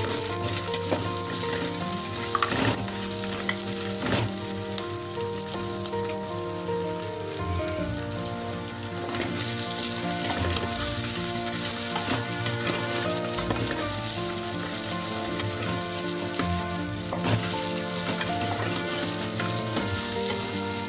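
Chopped onion, green chillies, ginger, garlic and whole spices sizzling as they fry in oil in an aluminium pot, stirred with a wooden spatula. Background music plays underneath.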